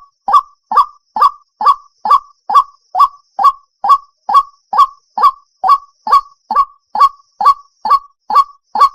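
White-breasted waterhen calling, a loud, short note repeated steadily about twice a second, evenly spaced throughout.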